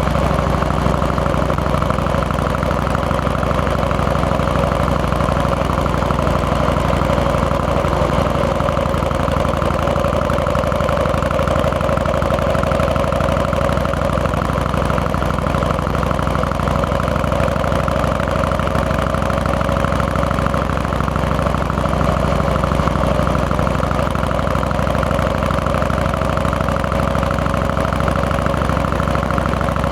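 Harley-Davidson Fat Boy's Twin Cam 88 air-cooled V-twin engine running steadily under way, with an even, unchanging engine note and no revving.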